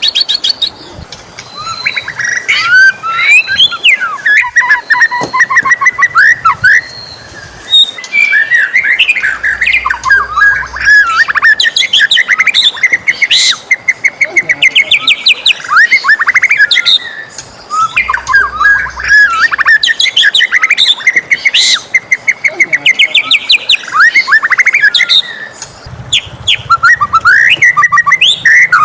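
White-rumped shama (murai batu) singing a loud, varied song of clear whistles, sweeping notes and fast trills, with only short pauses between phrases.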